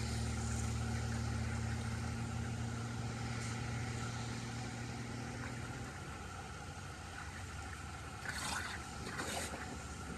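Steady rush of water flowing through a cleared drain, with a low steady hum under it that fades out about six seconds in and two short bursts of noise near the end.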